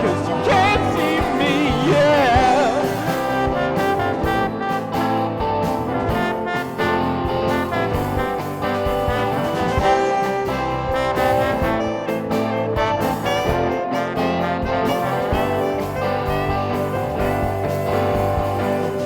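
Small jazz band with trombone, saxophone, piano, bass and drums playing an instrumental passage. The drums are hit steadily throughout, and the band stops on a held final chord at the very end.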